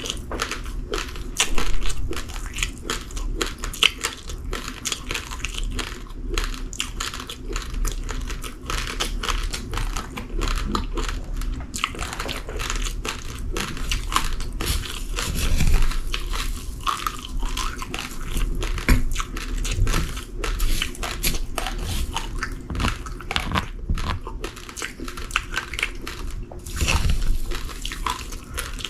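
Uncooked rice grains being crunched between the teeth, close to the microphone: a dense, continuous run of small crackling crunches with a few louder bites.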